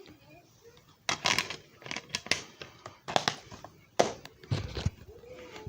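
A run of irregular knocks, clicks and short scrapes, like objects being handled and set down, with a heavier thump about four seconds in.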